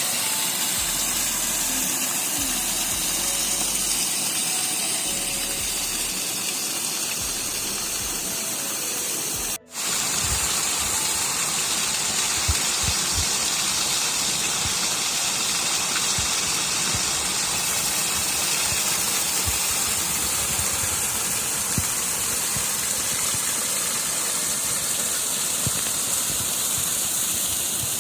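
Swollen mountain stream rushing down a gully after heavy rain: a loud, steady gush of water with a brief break about ten seconds in.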